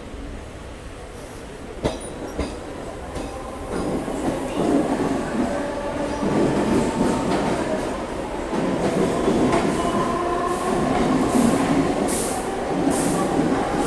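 Mumbai suburban local train heard from its open doorway as it runs into a station: a couple of sharp clacks from the wheels over the rails about two seconds in, then a louder rumble of wheels on track from about four seconds in, joined by a steady squeal as it slows. Short hisses come near the end.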